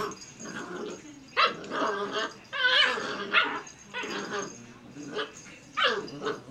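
Black Labrador retriever puppy barking in play: a few short barks, about one and a half, three and six seconds in.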